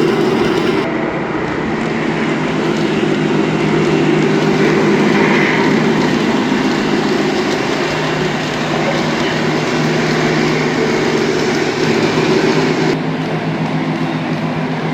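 Model train running on layout track: a steady rumble from the locomotive and cars, with rapid clicking of wheels over the rail joints. The sound shifts abruptly about a second in and again near the end.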